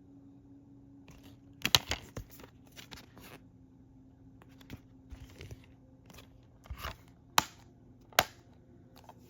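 A DVD case being handled and unwrapped: plastic crinkling and tearing in short bursts, with a few sharp plastic clicks, the loudest two near the end.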